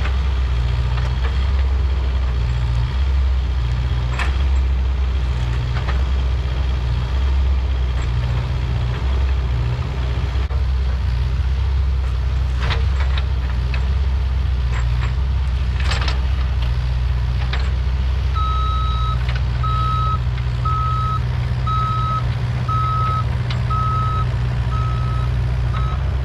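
Mini excavator engine running hard, its loudness surging and easing as the machine pushes against a tree, with several sharp cracks or knocks. From about two-thirds of the way in, its travel alarm beeps steadily, a little under two beeps a second.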